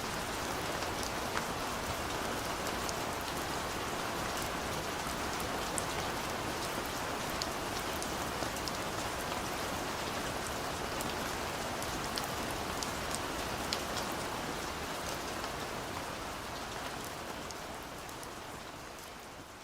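Steady rain falling, an even hiss with scattered sharp drop ticks, fading out gradually over the last few seconds.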